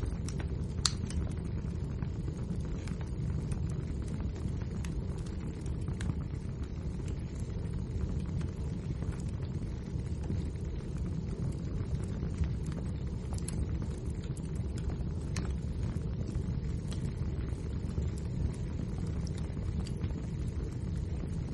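Wood fire burning: a steady low rumble of the flames with scattered sharp crackles and pops.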